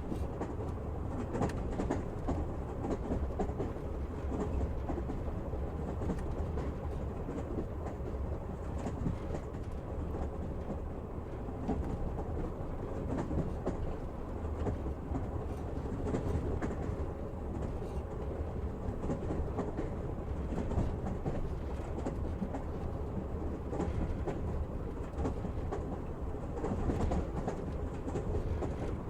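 Passenger train in motion: a steady low rumble with the wheels clicking over the rail joints.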